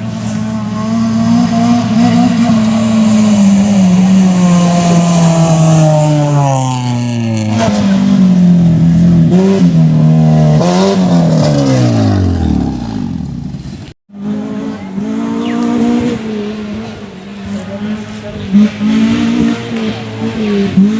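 Off-road race car engine revving hard, its pitch rising and falling through gear changes, then sliding steeply down at about twelve seconds. After a sudden cut, an engine is heard running and revving again with a wavering pitch.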